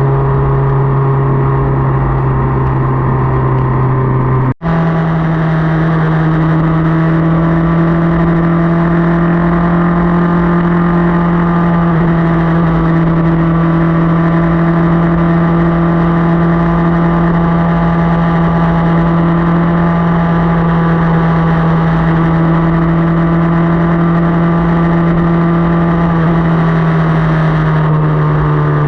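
Motorcycle engine running at a steady cruising speed, with wind and road rumble on the microphone. About four and a half seconds in the sound cuts out for an instant, and the engine note comes back a little higher, easing down slightly near the end.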